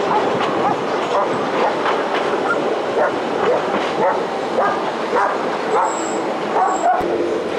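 A train running on the rails, with a quick series of short, sharp, rising yelps over the running noise.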